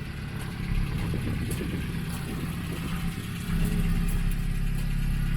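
1964 Renault Gordini engine running steadily at idle, getting louder and deeper about three and a half seconds in.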